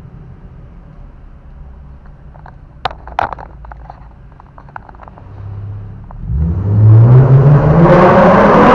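A 2015 Chevrolet Camaro's V6 idles quietly, with a few clicks about three seconds in. It is then revved hard, its pitch climbing steeply and the sound growing loud near the end, heard from inside the cabin.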